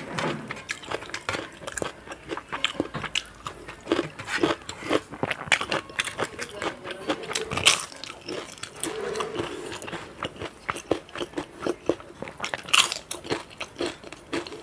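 Close-up chewing and crunching of crisp food in the mouth, a steady run of irregular crackly bites with a few louder crunches.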